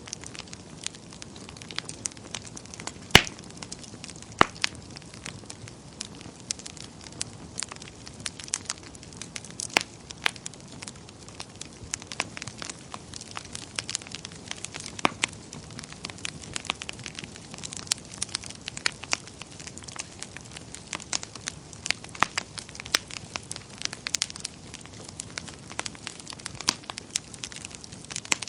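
Wood fire burning in a fireplace: a soft steady hiss with irregular sharp crackles and pops, one louder pop about three seconds in.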